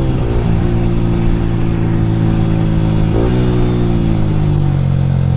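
A Yamaha R15 V3's 155 cc single-cylinder engine running through an Akrapovic R9 aftermarket exhaust while riding at steady revs. About three seconds in there is a quick rev blip, and near the end the revs ease off as the bike slows.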